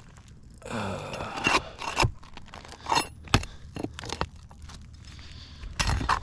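A metal flat bar scraping and prying under old, brittle 3-tab asphalt shingles, with several sharp clicks and knocks of metal on the roof.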